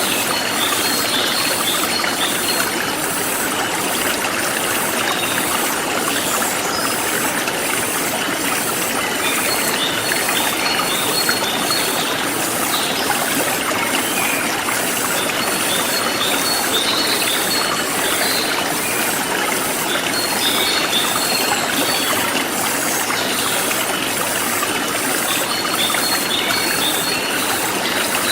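Forest stream flowing steadily, with insects chirping high in a steady pulsing rhythm of about two to three pulses a second and birds giving short bursts of chirps every few seconds.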